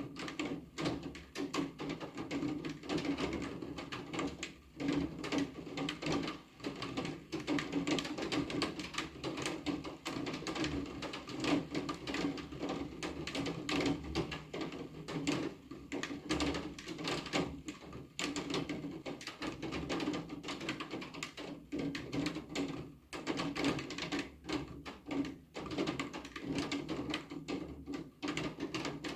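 Rain falling, heard as a dense run of irregular drop taps over a steady wash.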